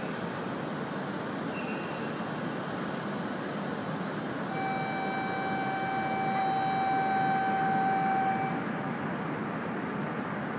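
Steady hum and hiss of an E5-series Shinkansen standing at a station platform, with station ambience. From about four seconds in, a held pitched tone with overtones sounds for about four seconds, like a platform departure signal.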